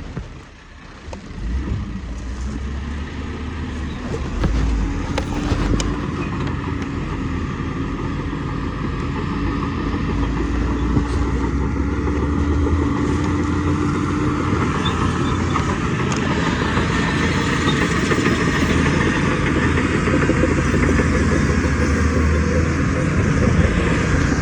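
Heavy diesel earthmoving machinery running steadily and growing gradually louder, with a steady whine that fades out about halfway through.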